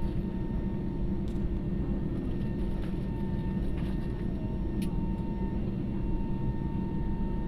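Steady drone of an airliner's engines and air systems heard from inside the passenger cabin, a low rumble with a faint steady whine above it.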